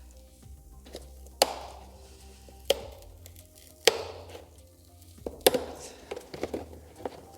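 Sharp cracks and snaps of a glued plastic speaker bracket being pried off a car door panel: four loud ones roughly a second apart, then a flurry of smaller ones near the end.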